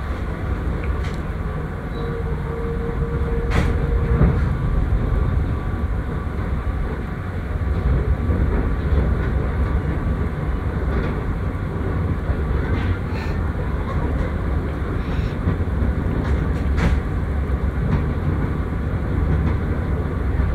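Passenger train heard from inside an economy coach as it pulls out of the station: a steady low rumble from the running gear, with occasional sharp clanks and knocks from the carriage and a brief faint tone about two seconds in.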